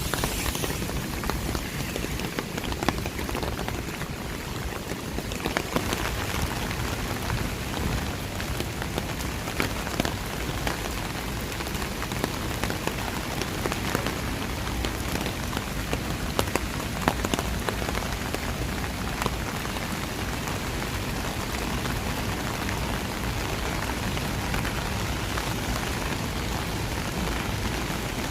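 Steady rain falling, with many separate drops striking hard surfaces close by.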